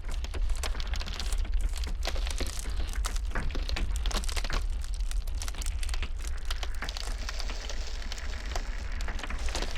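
Ice cracking in a dense, unbroken run of sharp snaps and crackles, over a steady low rumble of blizzard wind.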